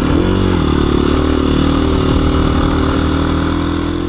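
A 2017 KTM 350 EXC-F's single-cylinder four-stroke engine running steadily, with a brief rise and fall in pitch about half a second in.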